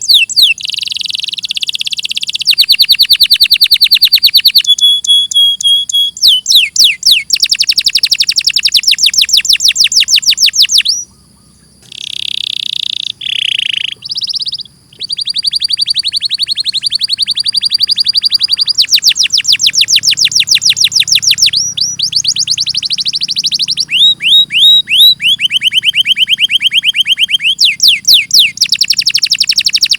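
Canary singing: fast rolling trills and runs of rapidly repeated high notes, in phrases a few seconds long, with a brief pause about eleven seconds in.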